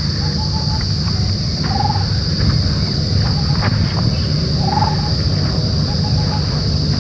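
Steady high-pitched drone of insects in the forest, over a low rumble, with a bird's short rippling call repeated about every three seconds.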